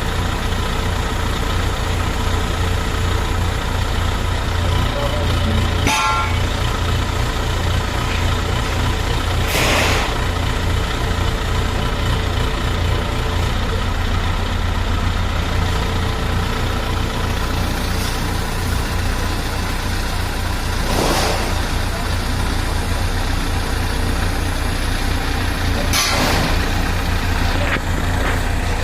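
Heavy construction machine's diesel engine idling steadily with a low throb. Four short hisses come and go through it.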